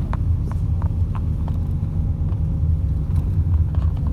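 MAZ-206 city bus under way, heard from inside: a steady low engine and road rumble with light rattling ticks about three times a second, the rattle of a strongly vibrating cabin.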